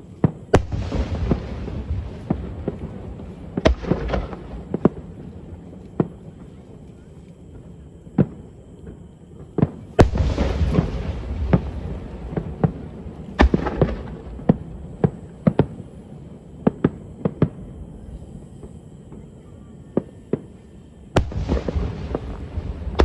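Aerial fireworks shells bursting: a run of sharp bangs with rumbling, crackling tails. The heaviest volleys come about half a second in, at about ten seconds, and again near the end.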